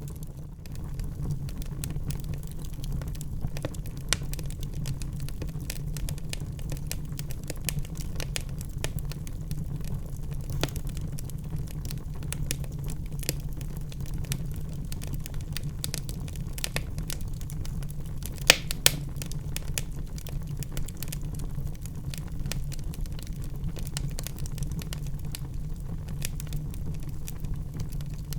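Wood fire burning in a fireplace: a steady low rumble of the flames with many small crackles and pops throughout, and two loud sharp snaps about two-thirds of the way through.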